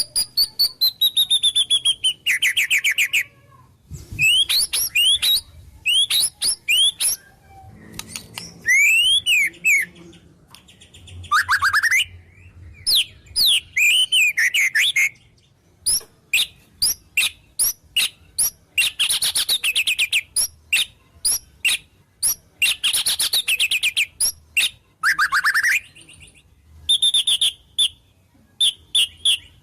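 White-rumped shama (murai batu) singing a varied song: rapid runs of sharp chips and chattering trills mixed with clear whistled notes that glide downward or rise and fall, in short phrases with brief pauses between them. The phrases are 'isian', calls of other wild birds that the shama has learned and repeats.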